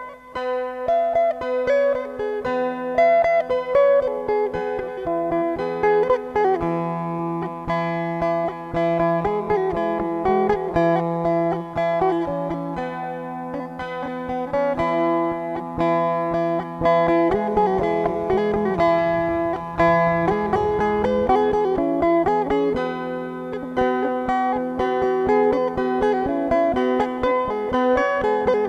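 Music: a plucked string instrument picking a quick, busy melody over steady held drone notes.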